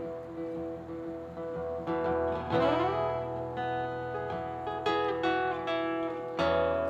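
Acoustic guitar playing an instrumental intro, single notes picked and left ringing over a held chord, with one note sliding upward about two and a half seconds in.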